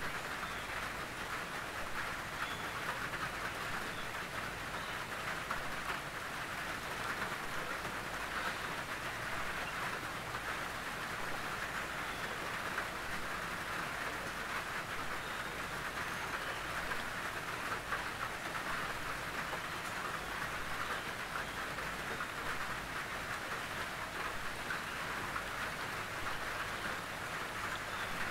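Steady rain pattering on a tin roof, a dense even hiss of many small drop impacts.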